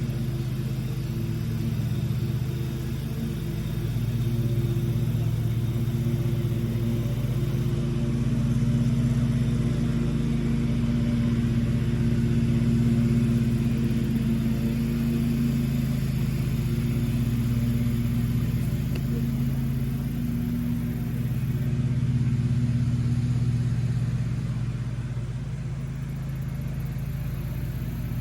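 A motor engine running steadily with a low hum, swelling and easing slightly in loudness.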